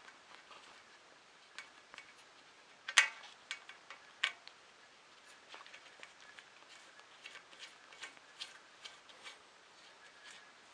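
Light clicks and taps of 3D printer kit parts being handled and fitted together by hand, irregular, with the loudest click about three seconds in and a sharp tap just after four seconds.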